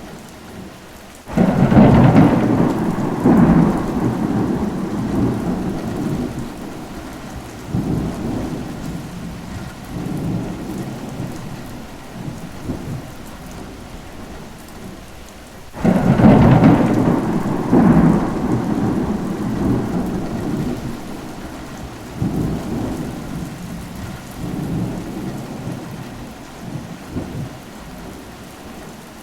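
Steady rain with two long rolls of thunder. Each breaks in suddenly, about a second in and again about halfway through, then rumbles away over ten seconds or so.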